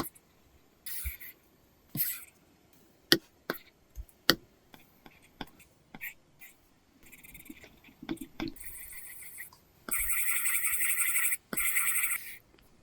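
Apple Pencil tip on an iPad screen covered with a paper-texture film: scattered single taps, then from about eight and a half seconds fast back-and-forth scratching strokes that grow louder about ten seconds in, as when shading an area.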